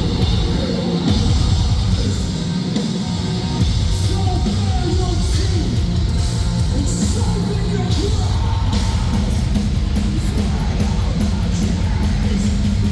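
Live metalcore band playing loud with distorted guitars, bass and drums, and screamed and sung vocals over them.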